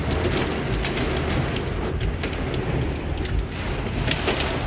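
Heavy rain hitting a car's roof and windshield, heard from inside the cabin: a dense patter of sharp drop hits over a steady low rumble from the vehicle.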